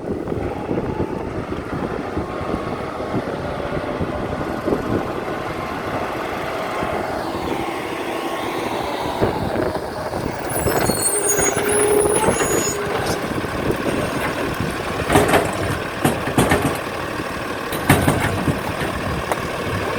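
Garbage truck engine running steadily, with a hiss of air about halfway and a few sharp metallic knocks near the end.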